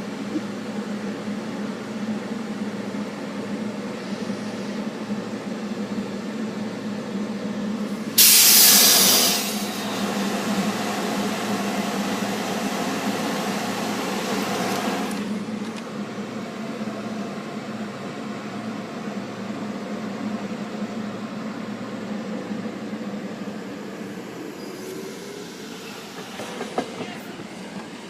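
SEPTA commuter train running, with a loud burst of air hiss about eight seconds in that lasts over a second. The train noise stays up for several more seconds, then fades gradually, with a few clicks near the end.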